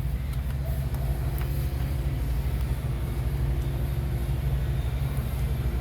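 An engine idling steadily with an even low rumble, with a few faint clicks near the start.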